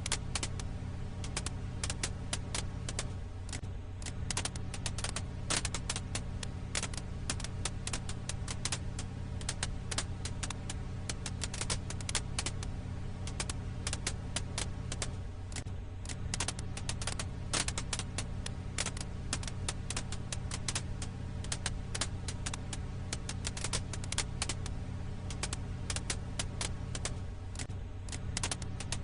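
Wood fire crackling: many irregular sharp pops and snaps over a steady low rumble. The same pattern comes round again about every twelve seconds.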